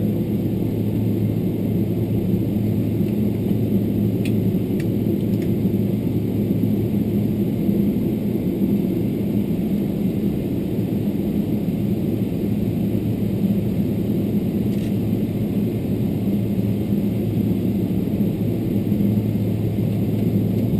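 Cabin noise of a Boeing 777-300ER on the ground: a steady low rumble and hum with no change, and a few faint clicks about four and fifteen seconds in.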